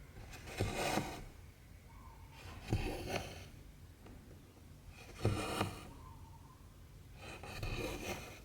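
Stitching sounds: cotton thread drawn through 14-count cross-stitch fabric, four pulls about two seconds apart, each in two quick strokes.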